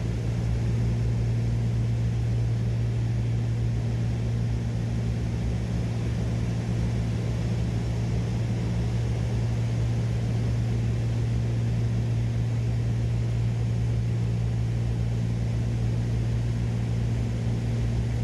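Steady cabin drone of a Cessna 402's twin piston engines in cruise: an even low hum with a strong low tone and propeller noise that does not change.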